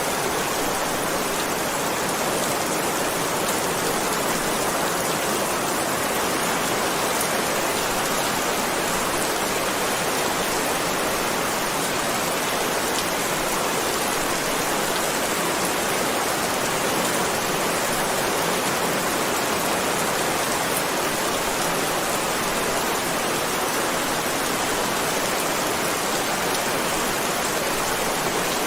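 Heavy rain falling steadily, an even hiss of downpour with scattered individual drops.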